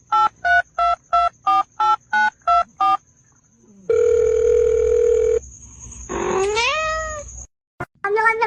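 Touch-tone phone dialing: about ten short keypad beeps in three seconds, then a steady telephone tone for about a second and a half. Near the end a cat gives a drawn-out meow that rises in pitch.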